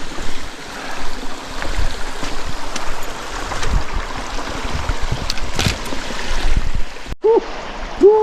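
Mountain creek water running steadily.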